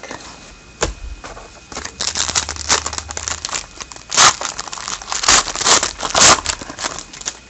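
A trading card pack's wrapper being torn open and crinkled, with a run of crackling tears and a few louder rips near the middle.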